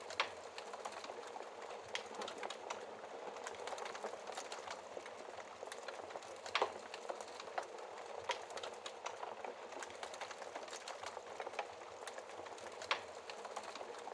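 Wood fire crackling in a fireplace: a steady hiss of burning with many small crackles and a few sharper pops, one just after the start, one about halfway and one near the end.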